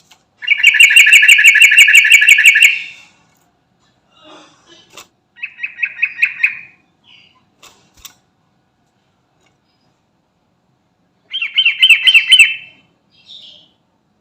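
Yellow-vented bulbul (trucukan) singing three bursts of fast, evenly repeated notes. The first lasts about two seconds; shorter bursts follow about five and eleven seconds in.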